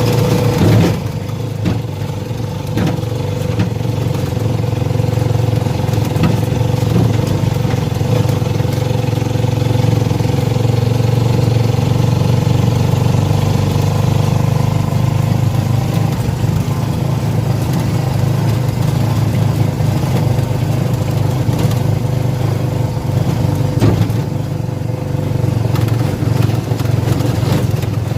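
A vehicle engine running steadily at an even pitch, with a few faint knocks.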